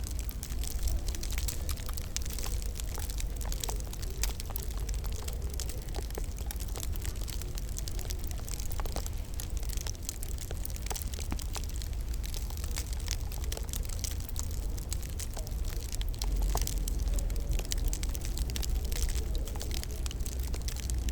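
Wood fire crackling in a fireplace: irregular small snaps and pops come thick and fast over a steady low rumble.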